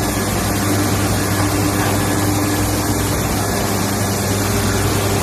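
Okuma LH-55N CNC lathe running with its spindle turning: a steady machine hum with a low drone and faint tones, one tone giving way to a slightly higher one near the end.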